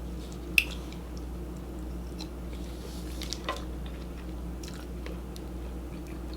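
A person chewing food close to the microphone during a mukbang, with a sharp mouth click about half a second in and another about three and a half seconds in, over a steady low hum.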